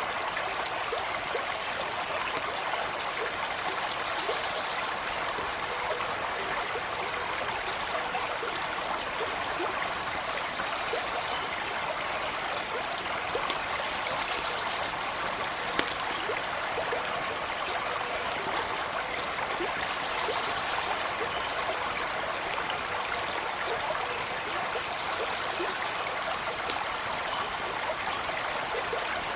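Small stream running over stones, a steady even rush of trickling water, with a few faint sharp clicks scattered through it.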